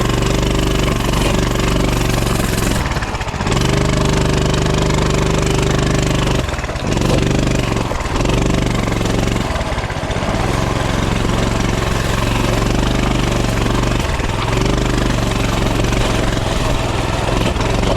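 Coleman CT200U mini bike's single-cylinder four-stroke engine running under throttle while being ridden over rough, rocky ground. The engine note drops briefly about five times as the throttle is eased off and picked back up.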